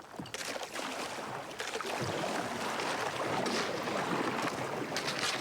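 Sea kayak being paddled through brash ice: steady splashing and rushing of water around the paddle and hull, with a few sharper knocks and scrapes of ice against the boat.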